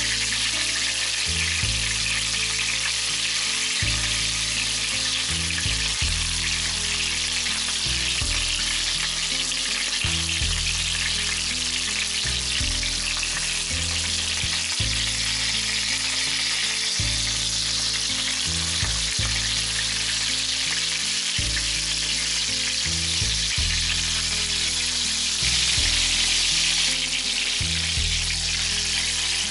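Breadcrumbed chicken skewers shallow-frying in plenty of hot oil in a pan, a steady, dense sizzle throughout.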